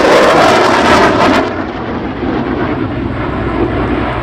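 F-16 fighter jet's engine roar, loudest for the first second and a half as the jet passes, then falling away to a steady lower rumble.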